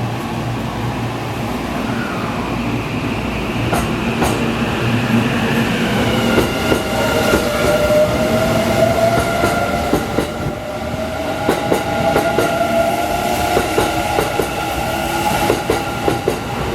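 Kintetsu 50000 series 'Shimakaze' electric express train pulling away: its traction motors give a whine that rises slowly in pitch as it picks up speed. The wheels clack over the rail joints, more and more often as it accelerates.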